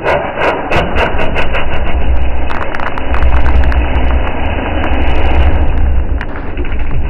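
Tofaş car's engine running with a deep, steady rumble. A quick series of sharp pops and crackles comes from the exhaust over the first two or three seconds, with one more pop near the end.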